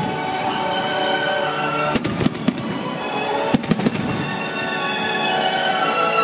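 Aerial firework shells bursting, with sharp bangs in pairs about two seconds in and again about three and a half seconds in. Music plays throughout.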